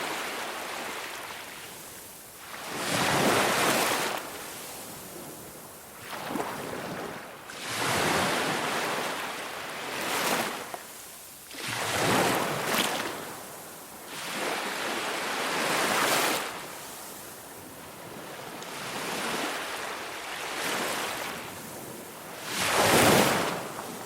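Sea waves breaking and washing up the shore, one surge of surf every two to three seconds.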